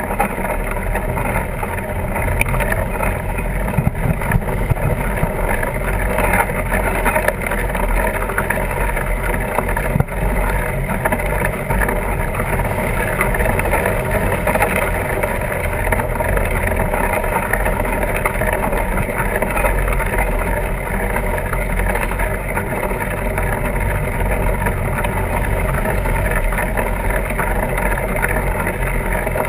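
Steady wind rush and rolling rumble on the microphone of a camera riding along on a fat tire bike, unbroken throughout.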